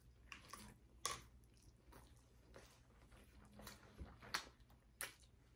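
A person chewing a mouthful of soft pasta close to a clip-on microphone: faint, irregular wet mouth clicks and smacks.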